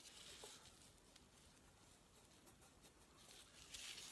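Near silence: faint room tone and hiss, with a few tiny clicks.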